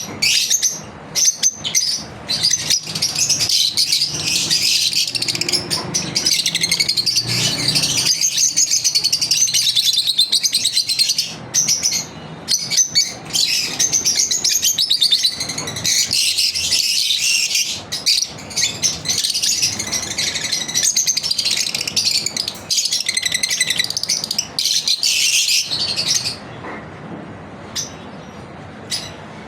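Pet lovebirds chirping constantly, a dense stream of high, rapid chirps that eases off about three seconds before the end.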